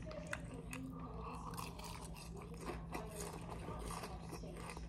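A person chewing a mouthful of Raisin Bran Crunch cereal in milk, a faint crunching, with a few light clicks of a metal spoon against the plastic cup.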